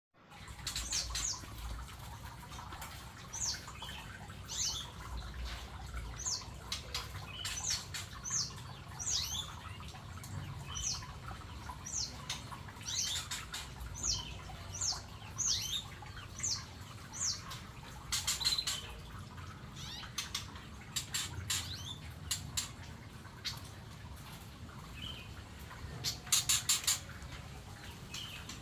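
Aviary birds chirping: short, high, downward-slurred chirps repeated every second or so. Bursts of rapid clicking come about two-thirds of the way in and again near the end.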